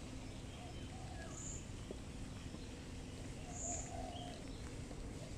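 Birds calling faintly outdoors: soft low coos repeating every second or two, with a few thin high chirps, over steady background noise.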